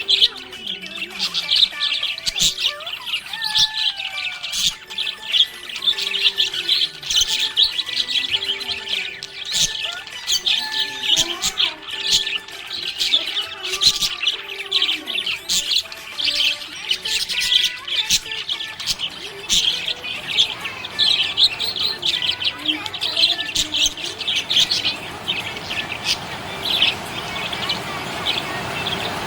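Budgerigars chirping and chattering: a dense, unbroken stream of short high chirps with softer warbling glides underneath.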